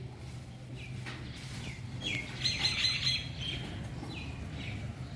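Birds chirping: short, downward-slurred calls repeating, with several birds calling at once around the middle, over a steady low hum.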